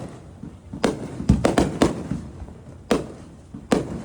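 Fireworks exploding: a quick run of sharp bangs about a second in, then two more single bangs near the end, each trailing off in a low rumble.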